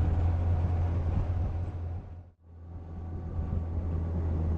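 Yamaha FJR sport-touring motorcycle under way: a steady low engine drone with wind and road noise. The sound fades briefly to near silence about halfway through, then returns.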